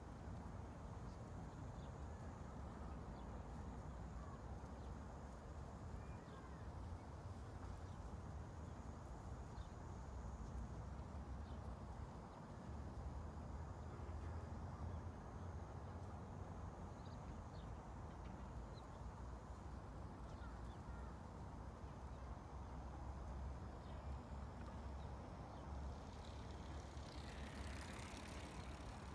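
Faint outdoor ambience: a steady low rumble with faint high chirps scattered through it, and a brief rushing hiss near the end.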